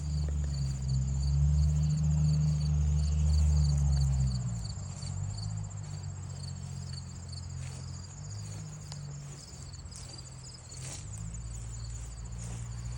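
Evening insects calling: a steady high trill with a separate rapidly repeating chirp. A low droning sound lies under them and fades out about four and a half seconds in.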